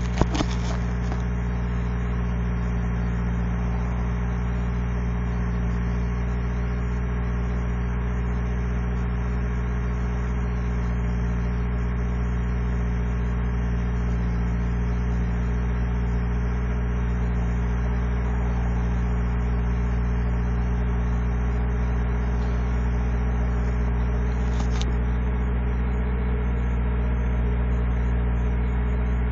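Truck engine idling steadily after a hard cold start in sub-zero temperatures. There is a brief click right at the start and another faint one near the end.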